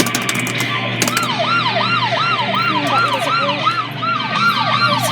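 Fred's Fire Truck kiddie ride playing an electronic fire-truck siren effect through its speaker: a fast rising-and-falling siren, about three sweeps a second, starting about a second in after a short stretch of the ride's music.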